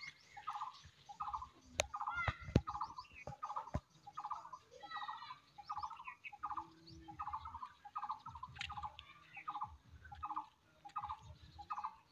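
A bird calling over and over at an even pace, a little under two calls a second. A few sharp clicks come in the first few seconds.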